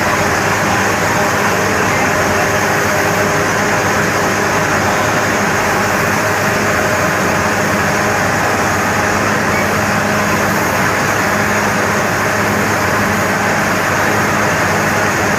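Borewell drilling rig running steadily at work: a loud, even machine drone with a low hum under a broad hiss that does not change.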